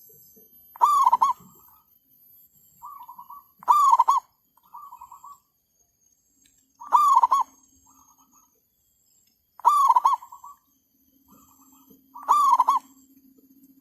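Zebra doves (merbuk) cooing: a close bird gives five loud coo phrases, about one every three seconds, and softer cooing phrases from a second dove come in between them.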